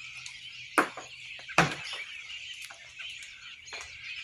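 Berries knocked loose by birds dropping onto a screen porch: two sharp knocks about a second apart, the second the loudest, then a couple of fainter taps, over a steady high hiss.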